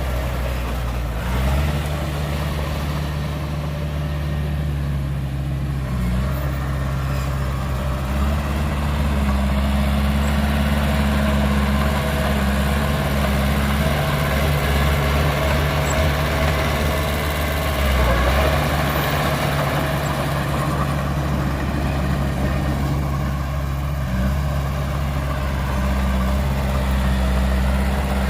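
Heavy diesel engines of a bulldozer and dump truck running steadily, the engine note stepping up and down in pitch several times as the machines work.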